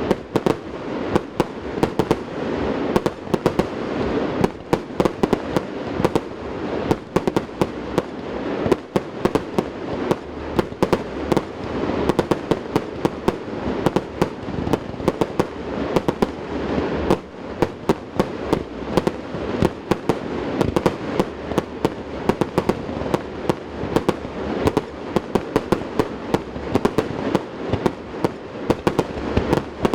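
Fireworks display: a dense, unbroken barrage of sharp bangs and crackles, several a second, over a steady rumble. The bangs echo off the surrounding mountains.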